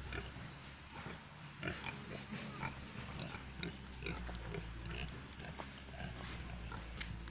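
Native pigs grunting, many short grunts scattered throughout, over a low steady hum.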